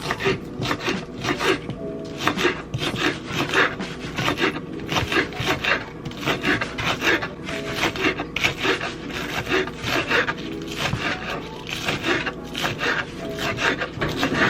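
Quick, repeated rasping strokes of something being scraped or rubbed against a hard surface.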